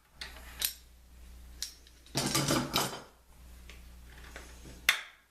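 Workshop handling noises: a few light clicks, a clattering rattle of just under a second starting about two seconds in, and a sharp knock near the end, over a steady low hum.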